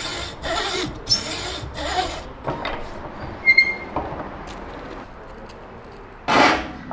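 Hand file rasping across wooden gear teeth in strokes about half a second long, three in quick succession at the start. A quieter stretch follows with a brief high squeak, and the strokes start again near the end.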